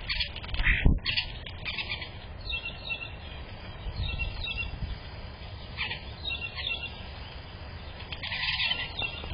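Small birds chirping in short, repeated calls, with a single loud thump a little under a second in.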